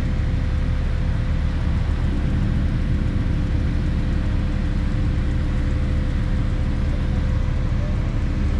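Car engine running at a steady idle, a low even rumble with no revving.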